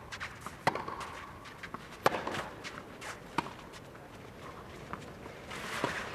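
Tennis ball struck by rackets in a rally on a clay court: sharp single hits about every one and a half seconds, over a low hush from the stadium crowd.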